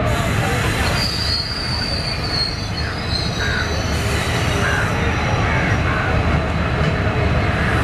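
Indian Railways passenger train rolling along at speed: a steady rumble of wheels on rail, heard from the open doorway of a moving coach. About a second in, a brief high metallic wheel squeal sounds over the rumble.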